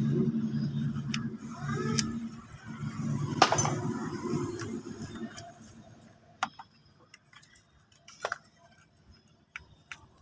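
Toyota Prius's 1.5-litre four-cylinder petrol engine running with a steady low hum, stopping about five seconds in. Light plastic clicks and knocks come from hands handling the wiring harness bracket over the ignition coils, the sharpest about three seconds in.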